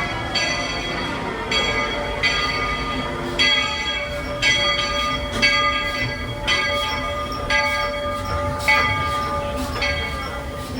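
Steam locomotive's bell ringing steadily, about one stroke a second, each stroke ringing on, over a low rumble.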